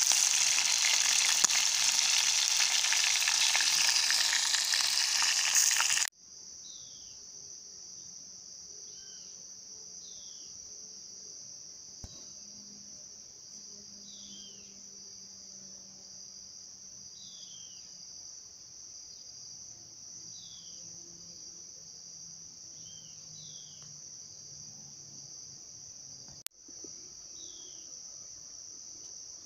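Sausages sizzling loudly in fat in a pot on a small gas camping stove, cut off abruptly about six seconds in. After that, a steady high insect drone fills the woods, with short falling whistles every second or two.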